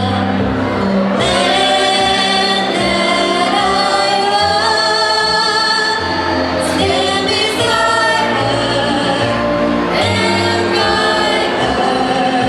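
A song performed with a singing voice over instrumental accompaniment with a steady bass line.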